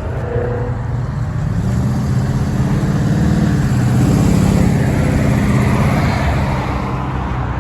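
Car engine revving hard as a car slides, growing louder to a peak about four seconds in and then easing off.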